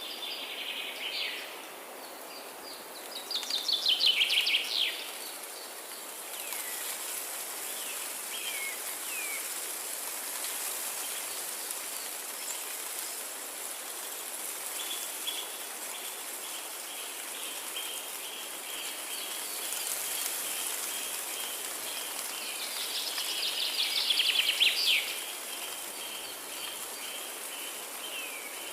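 Forest ambience with birds singing: two loud, rapid song phrases, one a few seconds in and one near the end, a few short chirps between them, and a long, even, rapid trill through the second half, over a steady high hiss of background insects.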